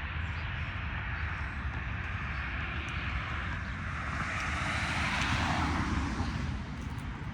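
Engine noise of something passing at a distance, most likely an aircraft overhead: a steady rumble that swells to its loudest about five seconds in, then eases off.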